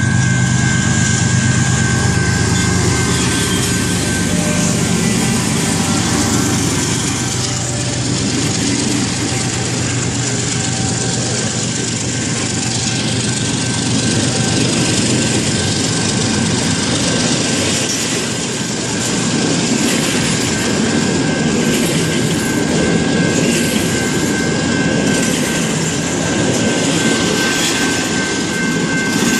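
Freight train passing close by: diesel locomotive engines running at first, then the steady rumble and clatter of freight cars rolling past, with a steady high-pitched tone throughout.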